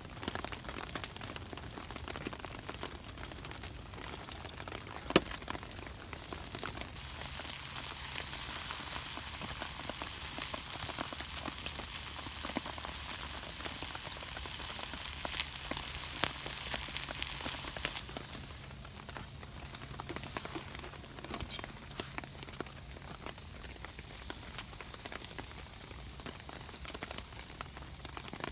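Food sizzling as it grills, a steady hiss with scattered crackles and pops and one sharp pop about five seconds in. The sizzle swells louder about a third of the way through and drops back suddenly about two-thirds in.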